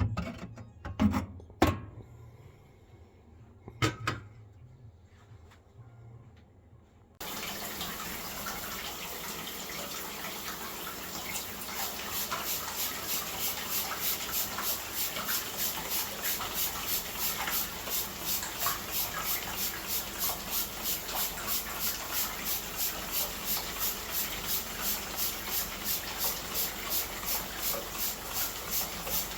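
A few sharp knocks, then about seven seconds in a tap is turned on and water runs steadily into a sink. From about eleven seconds the water sound pulses evenly, about twice a second.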